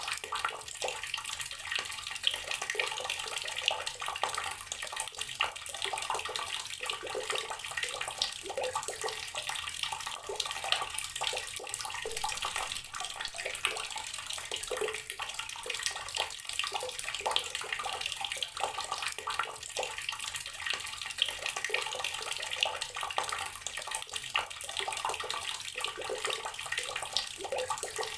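Water running steadily from a tap, splashing into a basin or tub without a break.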